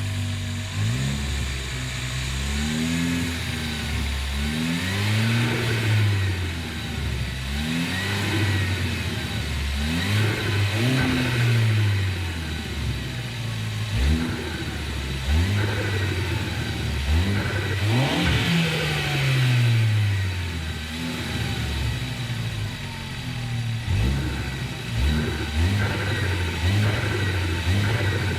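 Ford Focus ST's turbocharged five-cylinder engine being revved in repeated short blips, each rev climbing and falling straight back.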